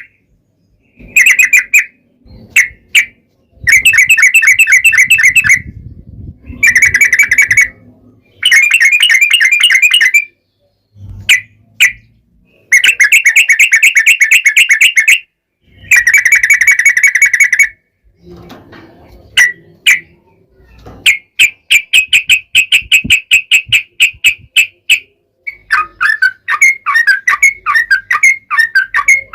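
Yellow-vented bulbul (trucukan) singing loudly in long rapid trills: bubbly phrases of one to three seconds each, with short pauses between them. Near the end the song breaks into a quicker, choppier chatter.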